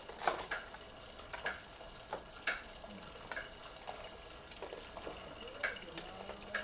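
Kitchen sounds while cooking: scattered clinks and knocks of utensils and cookware over a faint steady hiss.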